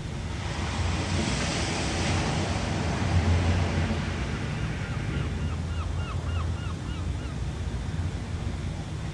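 Ocean waves: a wave washes in with a hissing swell that builds for the first few seconds and then eases, over a steady low rumble of surf. Midway there is a quick run of about eight short chirps.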